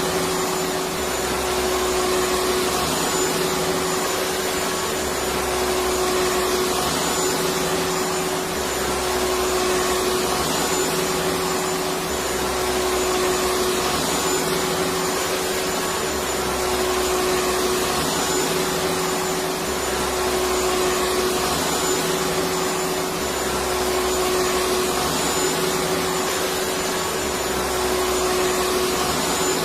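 Electric vacuum cleaner running steadily: a constant rush of air with a steady motor whine.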